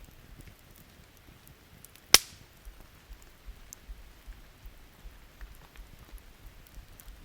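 Wood campfire crackling with small scattered clicks over light rain, and one loud, sharp pop from the burning wood about two seconds in.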